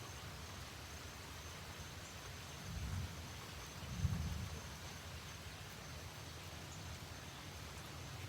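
Quiet outdoor ambience with a steady low rumble and two brief low swells about three and four seconds in, the second the louder.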